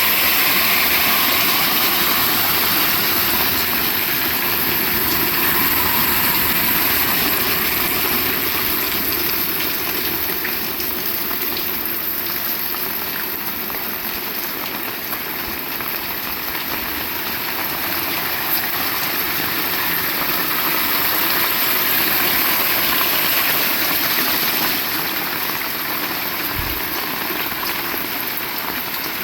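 Heavy rain falling steadily: a dense, even hiss of water with no let-up.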